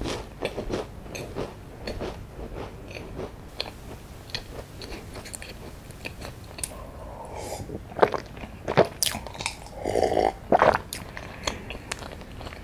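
Close-miked chewing of a crunchy layered strawberry pie biscuit, with small crunches and mouth clicks. Past the middle come a few louder swallows of a drink.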